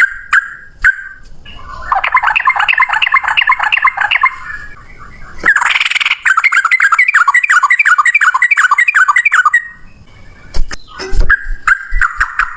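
Sooty-headed bulbul singing in long runs of rapid repeated notes, the fast "ropel" song, in three phrases of a few seconds each. A few sharp knocks come between the second and third phrases.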